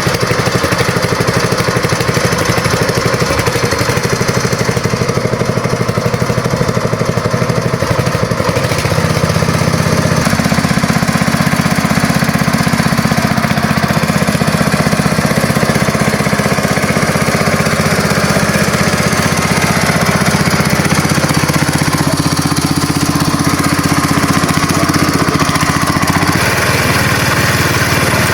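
Engine running steadily. About nine to ten seconds in, its note deepens and gets a little louder, then holds.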